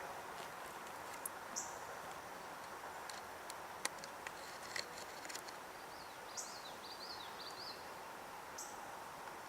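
Faint outdoor background hiss with a few short, high bird chirps spread through it and a brief twittering phrase of wavering high notes a little past the middle.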